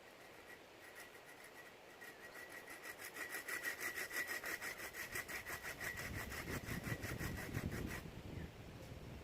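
Saw cutting through wood by hand in quick, even strokes, growing louder a few seconds in and stopping near the end.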